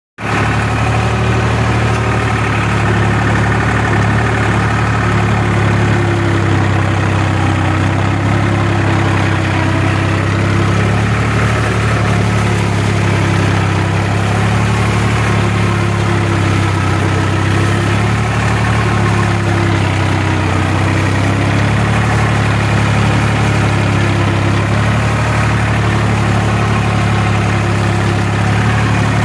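New Holland tractor's diesel engine running steadily at an even speed, with a faint wavering higher whine over the low engine note.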